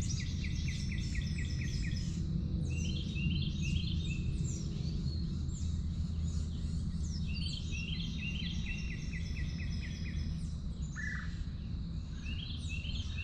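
Several songbirds singing in overlapping trilled phrases of quick, high falling notes, over a steady low background rumble.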